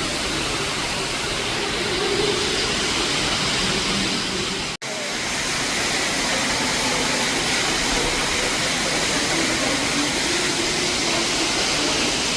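Steady rushing of falling water, like an indoor waterfall, with a brief dropout about five seconds in.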